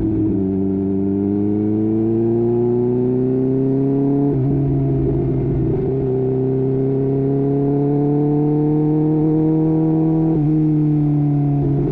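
2015 Kawasaki Ninja H2's supercharged inline-four engine accelerating under way. Its pitch climbs steadily and dips briefly at each upshift: near the start, about four seconds in, and again about ten seconds in.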